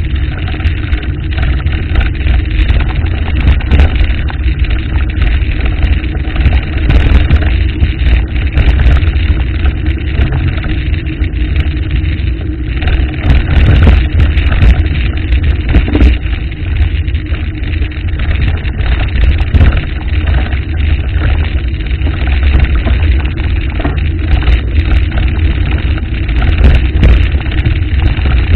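Waterfall's falling water, a loud, steady rushing noise.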